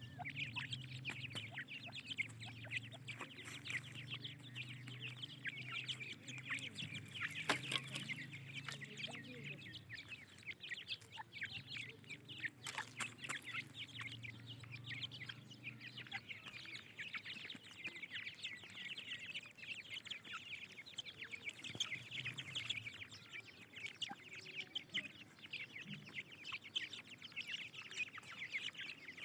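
A group of francolin chicks peeping continuously in rapid, high, short chirps, with a few sharp clicks. A low steady hum runs underneath for about the first half, then fades out.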